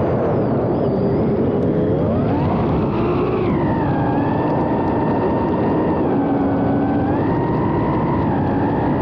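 Diatone FPV quadcopter's motors whining, the pitch climbing sharply about two seconds in, then holding high with small dips and rises as the throttle is worked, over a loud rushing noise.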